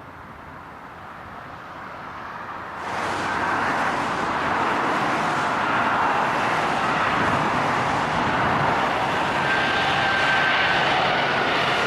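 Jet engines of an Airbus A380-841 (four Rolls-Royce Trent 970s) on approach to land: a steady rushing roar that swells sharply about three seconds in and stays loud, with faint steady whistling tones in it.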